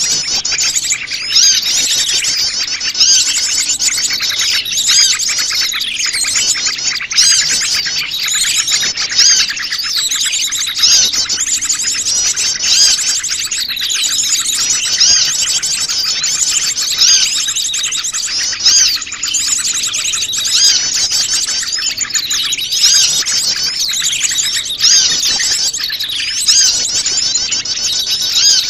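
A dense, noisy chorus of many small wild songbirds chirping and twittering without a break, with louder calls standing out every second or two. It is a mixed small-bird lure call used to draw wild small birds in.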